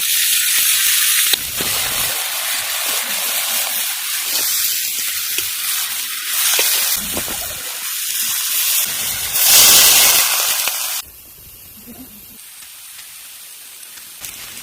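Food sizzling as it fries in a pan, with a steady loud hiss and a few brief surges; it cuts off suddenly about eleven seconds in, leaving a much quieter background.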